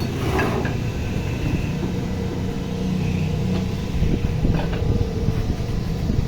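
A vehicle engine running steadily with a low hum, with a few short knocks and scrapes over it.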